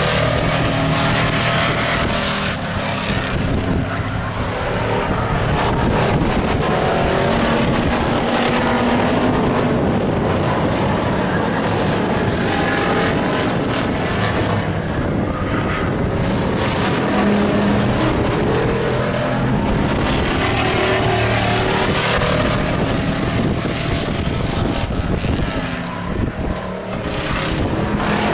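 Stock pickup race trucks racing around an oval. Several engines run loud and continuously, their pitch rising and falling as the trucks accelerate down the straights and lift for the turns.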